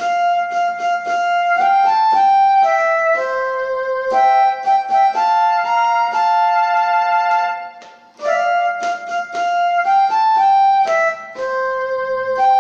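A flute playing a short melody of clear, separately attacked notes; the phrase breaks off briefly about eight seconds in and starts again.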